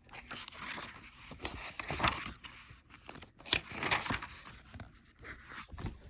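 Paper rustling and crinkling in irregular swells with a few sharp clicks, typical of a picture book's pages being handled and turned.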